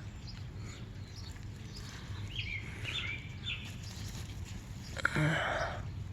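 A few short bird chirps around the middle over steady outdoor background noise, with a brief louder noisy sound about five seconds in.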